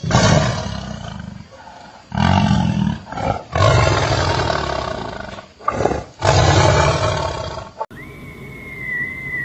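A large animal giving a series of about five loud, rough roars with short pauses between them. Near the end the sound cuts abruptly to a steady high, wavering tone with music behind it.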